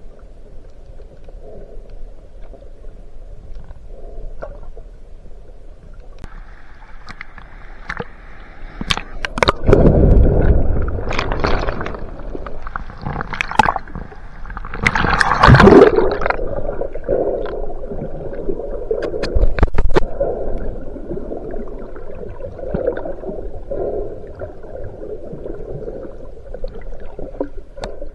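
Water gurgling and sloshing over the camera in wave surge, with louder surges about ten and fifteen seconds in and scattered sharp clicks.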